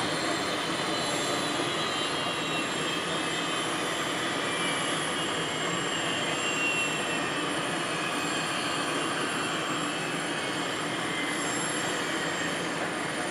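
Turboprop military transport aircraft engines running, a steady rushing noise with a faint high whine that slowly falls in pitch.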